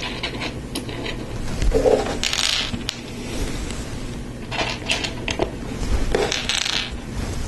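Plastic Lego Technic pieces being handled and fitted together: several sharp clicks and clatters, with three short rustling bursts.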